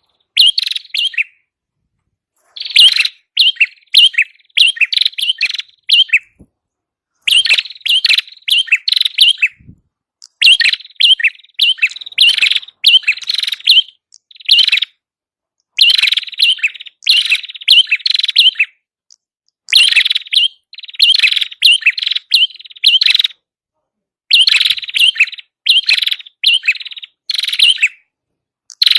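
Red-headed prenjak, a small prinia-type songbird, chattering in loud, rapid phrases of high chirps, each about a second long with short pauses between. This is the song used as a lure call to draw the same species in.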